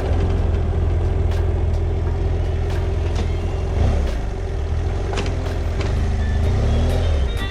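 BMW F800GS parallel-twin engine running while riding, under heavy wind rumble on the microphone, with brief shifts in engine pitch about halfway through and near the end.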